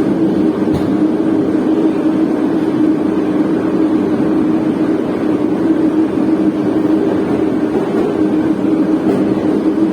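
Moscow Metro train running between stations, heard inside the carriage: a steady rumble of wheels on rails with a low hum, and one faint knock about a second in.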